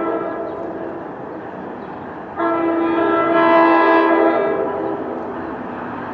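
Locomotive air horn sounding a brief blast at the start, then a longer blast of about two and a half seconds, over the steady rumble of a moving train.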